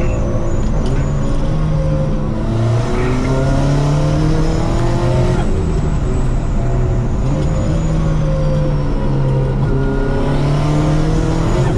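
Cyan P1800 restomod's 420 hp touring-car engine, heard from inside the cabin, accelerating through the gears of its five-speed manual: the pitch climbs, falls back at an upshift about five seconds in, and climbs again.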